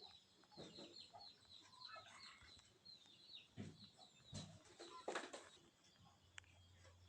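Faint bird calls: many short high chirps with some lower calls between them, and a louder brief sound about five seconds in.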